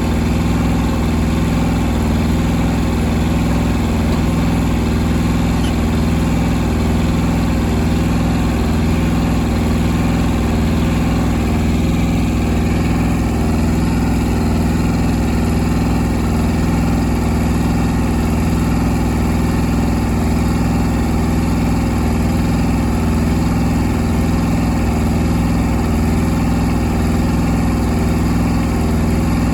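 Truck auxiliary power unit's small engine running steadily at a constant idle.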